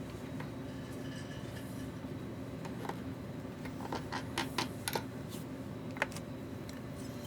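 Light clicks and taps of small metal tools and parts handled on a workbench during a soldering job, over a steady low hum. The clicks cluster a few seconds in, with one more near the end.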